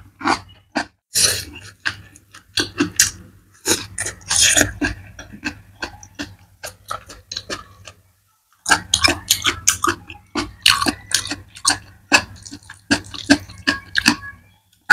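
Close-miked mukbang chewing: quick, crisp, wet mouth clicks of a person chewing cucumber and then boiled mustard greens. The chewing comes in two dense runs, with a short near-silent pause about eight seconds in.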